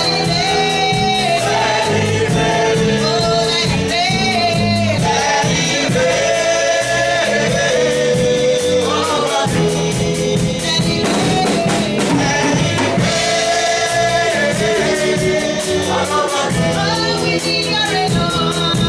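Gospel worship music: a choir sings over a band with a steady beat and bass line.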